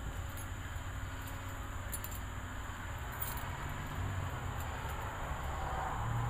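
Low rolling rumble of distant thunder from a thunderstorm a few miles off. It swells about halfway through and again near the end, with faint scattered ticks above it.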